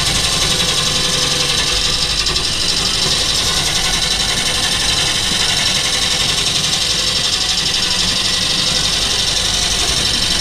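Wood lathe running steadily, a constant hiss with a low mechanical hum, typical of a tool cutting the spinning workpiece.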